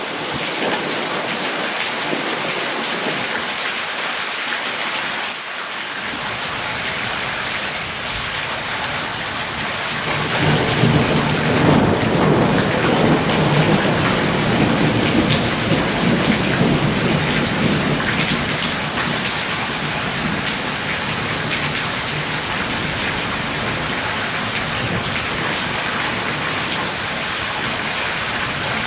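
Steady rain hissing down during a thunderstorm. About ten seconds in, a long, low roll of thunder builds up and then slowly fades away under the rain.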